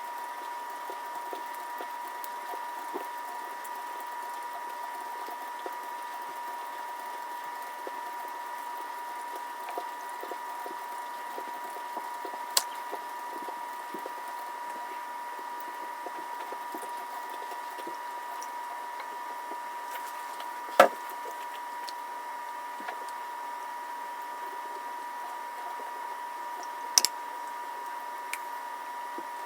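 Hands working raw chicken leg pieces in a bowl, peeling off the skin, with small handling noises over a steady high hum. A few sharp clicks or knocks stand out, the loudest about two-thirds of the way through.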